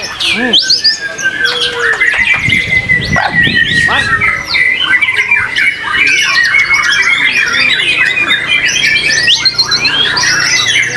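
Several white-rumped shamas (murai batu) singing at once, with a dense, loud tangle of overlapping whistles, chirps and rapid trills and no break in the song.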